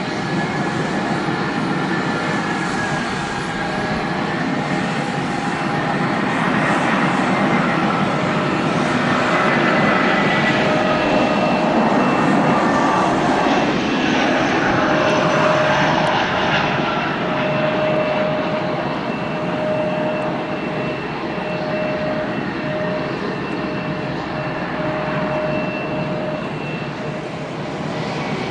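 StarFlyer Airbus A320 jet airliner landing: steady jet engine noise that swells about halfway through and then eases off, with a high engine whine held through the second half.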